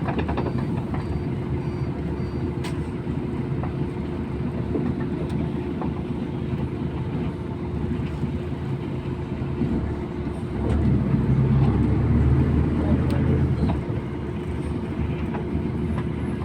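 MAZ-241 city bus running under way, a steady low engine and road rumble with a held drone, heard from inside the bus; it grows louder for about three seconds near two-thirds of the way through.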